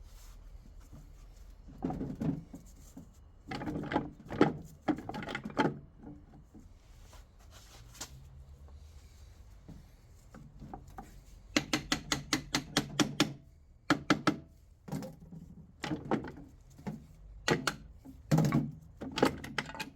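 Knocks and clatter of metal gearbox parts and tools being handled on a workbench, with a quick run of taps a little past halfway.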